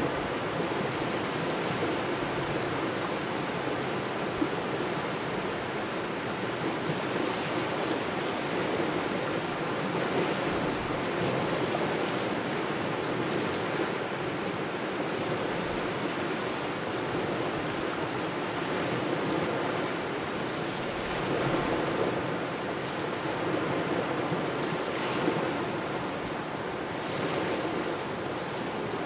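Waves washing onto a shore with steady wind, a continuous rushing that swells a little now and then as waves come in.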